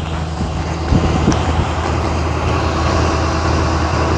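Steady motor-vehicle engine hum with road noise.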